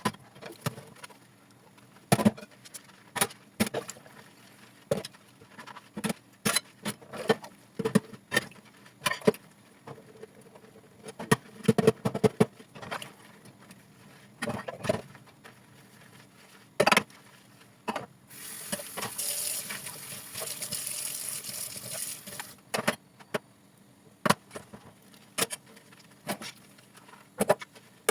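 Hand-washing dishes: scattered clinks and knocks of dishes and utensils, with the tap running for about four seconds past the middle.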